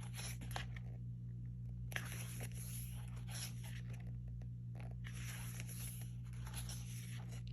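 Photobook pages being handled and turned: short bursts of paper rustling and sliding, a few times over the stretch, over a steady low hum.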